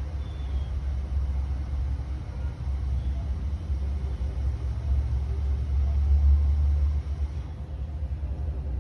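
Low steady rumble, swelling a little about two-thirds of the way through and easing off near the end.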